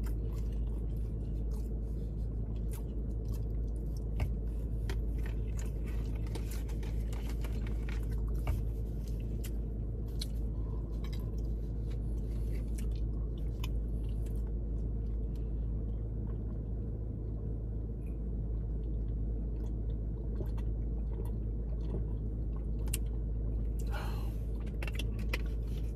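A person chewing sushi, with scattered soft mouth clicks, over a steady low hum inside a car cabin.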